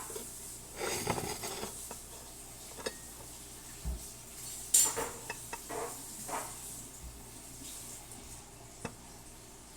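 Metal baking pan and cutlery clattering and knocking in a sink while the pan is set to soak in water, with the loudest sharp clank about halfway through.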